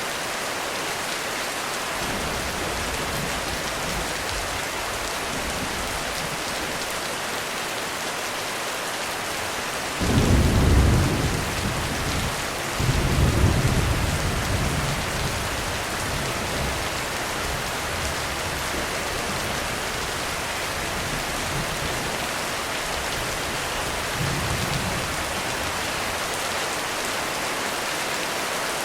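Heavy rain falling steadily, with thunder: a sudden loud deep clap about ten seconds in, a second rumble a few seconds later that dies away slowly, and a short low rumble near the end.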